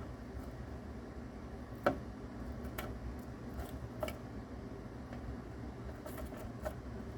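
Scattered sharp crunches and clicks, the loudest about two seconds in: a mouse biting into a cicada's hard shell. A steady low hum sits underneath.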